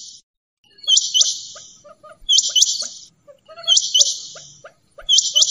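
Quail calling in a steady repeated phrase, four times: each phrase is two sharp high notes followed by a harsh buzzy rasp, with quieter low clucking notes in between.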